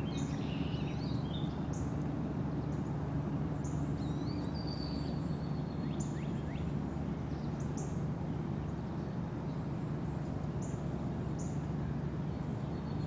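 Songbirds chirping, with short high calls every second or so and a longer call about four seconds in, over a steady low hum of outdoor background noise.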